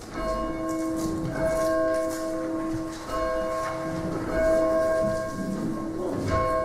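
Bell-like chimes sounding a slow sequence of held notes, a new note or chord struck about every one to two seconds.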